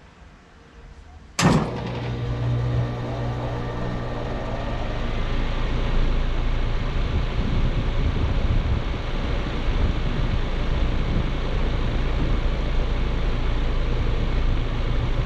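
2011 American Standard Heritage 15 five-ton heat pump starting up in cool mode: the scroll compressor and outdoor fan come on abruptly about a second and a half in with a sharp strike, then run steadily with a low hum, the fan noise building over the next few seconds.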